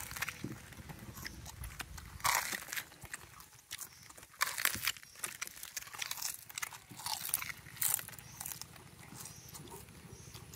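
A person biting into and chewing crisp fried egg-battered flatbread: a few loud crackly crunches spread through, with quieter chewing between.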